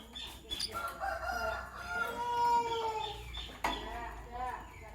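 Birds calling: short chirps, then one long drawn-out call lasting about two and a half seconds, with a sharp click soon after it.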